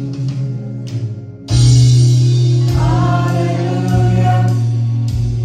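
Gospel choir singing with instrumental accompaniment. After a short lull over a held low note, the voices come in loud together about a second and a half in, holding the opening chord of a new song.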